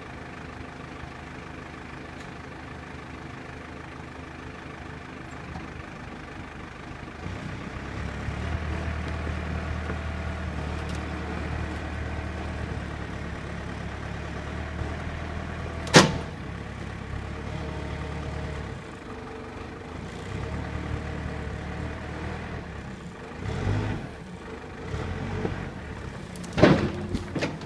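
Backhoe's diesel engine running steadily, then working harder under load from about seven seconds in. A single sharp crack comes about halfway through, and a few more thumps and cracks come near the end.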